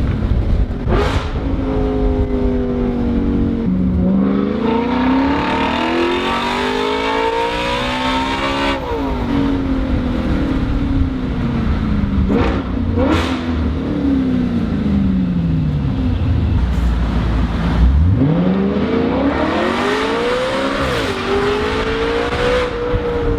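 Audi RS5 (B8) 4.2-litre V8 through an ARMYTRIX stainless cat-back sport exhaust with valves, accelerating hard several times. The revs climb and fall again between runs, with a couple of sharp cracks along the way.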